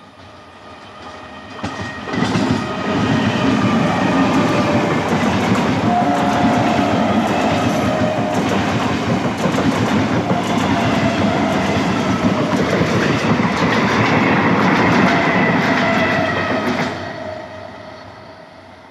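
Indian electric multiple-unit local train passing close at speed, its wheels clattering rhythmically over the rail joints. It swells in about two seconds in, stays loud for some fifteen seconds as the coaches go by, then fades near the end.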